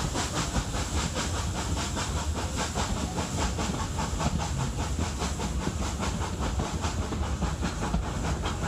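Hunslet Austerity 0-6-0 saddle tank steam locomotive working hard, its exhaust chuffing in a quick, even beat.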